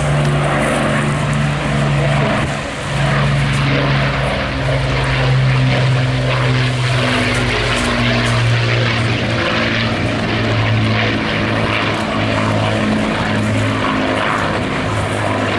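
The four Rolls-Royce Merlin V12 piston engines of an Avro Lancaster B1 bomber, running loud and steady as it flies past, their low multi-engine tone shifting slightly in pitch.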